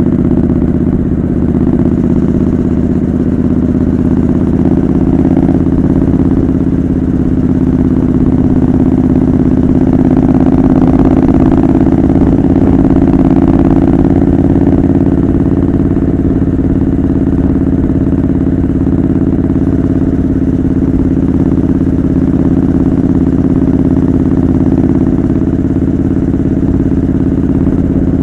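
Triumph Scrambler 900 parallel-twin running through a homemade custom exhaust while riding at a steady cruise, its note lifting a little about ten seconds in and then settling back.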